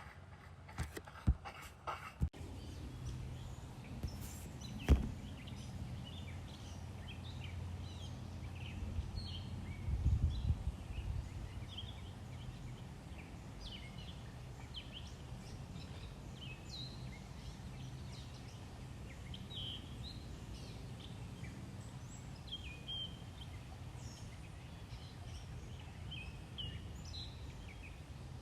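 Outdoor ambience: many short bird chirps over a steady low rumble, with a few sharp clicks in the first two seconds and a louder click about five seconds in.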